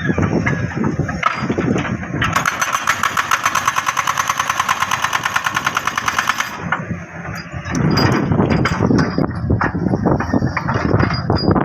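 Jackhammer hammering hard rock in a fast, even rhythm of blows, starting about two seconds in and stopping after about four seconds. Before and after it, an uneven low rumble with scattered knocks.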